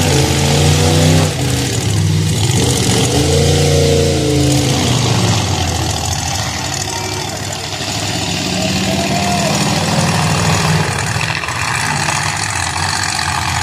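Demolition derby car engines running loudly, revving with the pitch rising and falling in the first few seconds, then revving again more briefly later on.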